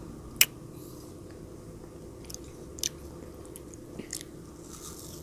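A child chewing frozen grapes close to the microphone, with one sharp crunch about half a second in and a few smaller crunches later.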